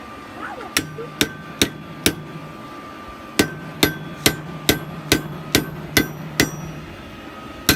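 Hammer blows on a red-hot railroad spike on an anvil, with a short ring after each. Four strikes at about two a second, a pause, then a run of eight at the same pace and one more near the end.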